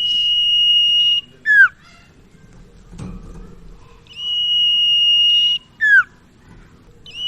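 Sirtu (cipaw) songbird singing. Each phrase is one long, steady, high whistle of about a second and a half, ending in a short falling note. The phrase comes twice, about four seconds apart.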